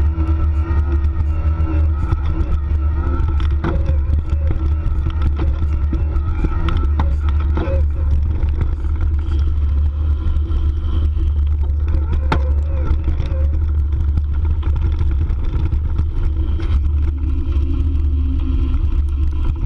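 Riding a Bosch mid-drive electric mountain bike: heavy wind rumble on the microphone with a steady whine from the motor, broken by a few sharp clatters from the bike over bumps.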